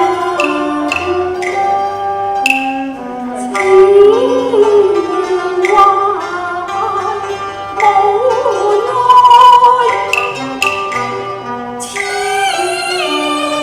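Cantonese opera music from a traditional Chinese ensemble: a sliding, wavering melody over plucked notes, with sharp percussion strikes every couple of seconds.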